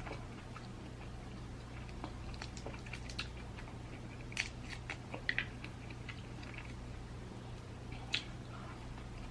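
Close-up eating of snow crab legs: soft chewing with scattered short clicks and crackles, a few louder ones about four and a half, five and eight seconds in, over a low steady hum.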